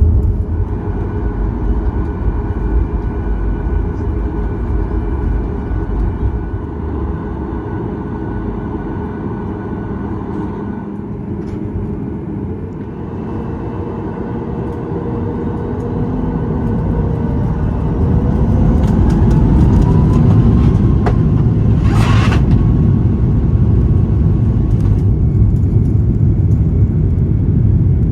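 Cabin sound of a Boeing 737 MAX 8's CFM LEAP-1B jet engines. First comes a low rumble while taxiing. About halfway through, the engines spool up with a rising whine and the rumble grows loud and steady as the takeoff roll begins, with a brief clatter a few seconds into the roll.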